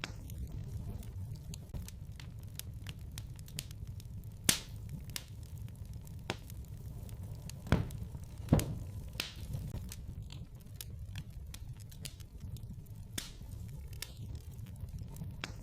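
Wood fire in a fireplace crackling: a steady low rumble under constant small crackles, with louder sharp pops about four and a half seconds in and twice just past halfway.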